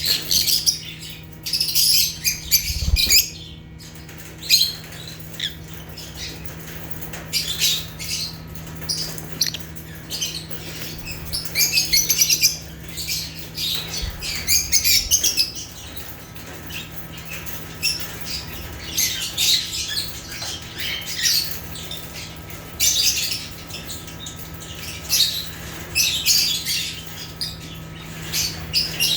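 Lovebirds (Agapornis) chirping and squawking in a steady stream of short, high-pitched calls, with a brief lull about three seconds in. A steady low hum runs underneath.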